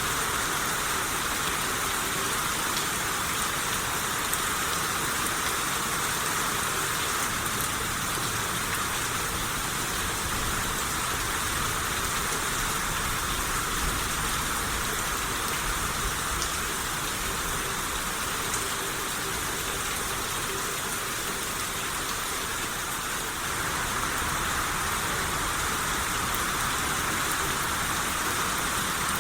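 Steady rain shower falling on surfaces, an even hiss with occasional single drops.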